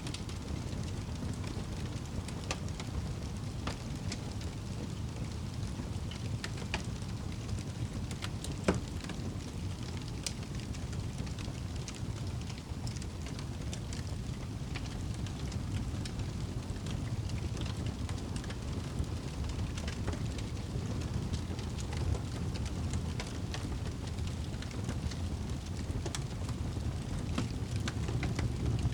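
Wood fire burning in a fireplace: a steady low rumble with scattered crackles throughout, and one louder pop about a third of the way in.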